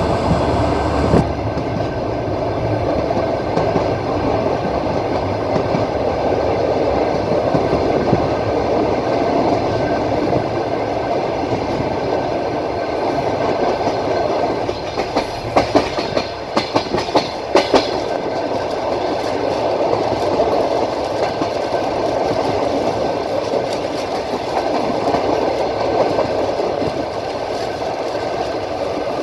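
Train wheels rolling along the track, heard from inside a moving passenger car: a steady rumble, with a quick run of sharp clacks over rail joints about halfway through.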